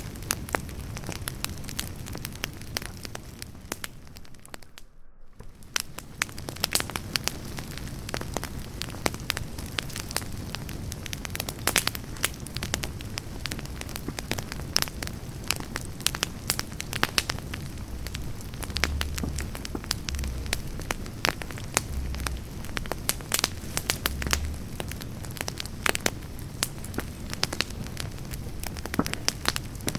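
Wood campfire burning, crackling steadily with frequent sharp pops of the burning logs; the crackle briefly drops away about five seconds in.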